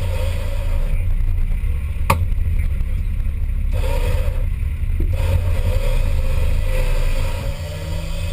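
Off-road 4x4's engine running steadily with a low rumble, and a single sharp knock about two seconds in.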